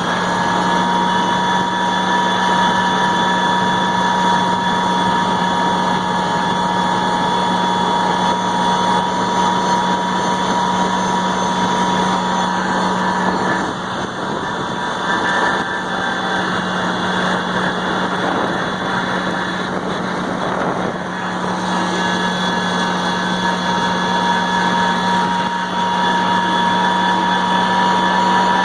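New Holland tractor engine running steadily. For several seconds in the middle its low steady hum breaks up and the level dips a little, then it settles back to the same steady note.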